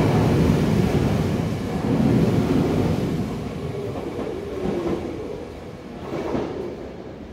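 Tokyu Toyoko Line electric commuter train running on the track, its wheels and motors rumbling loudly at first and then fading away as it moves off.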